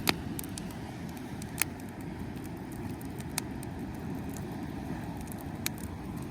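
Wood bonfire crackling, with a few sharp pops spread through, over a steady low rumble.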